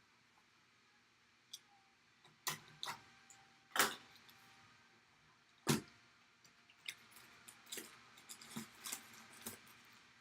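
Sealed baseball bat box and its packaging being opened by hand: scattered sharp knocks and clicks, the loudest about four seconds in, then a quicker run of lighter clicks and rustles.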